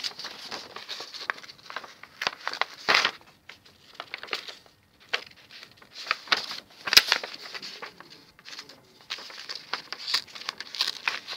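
A sheet of A4 paper being folded and creased by hand: irregular crackling and rustling, with sharper crinkles about three seconds in and again about seven seconds in.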